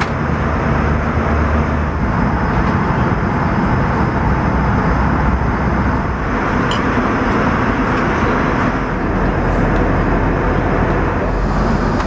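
Steady cabin noise of an Airbus A320 in flight: a constant rush of airflow and engine drone. A low hum under it drops away about two seconds in.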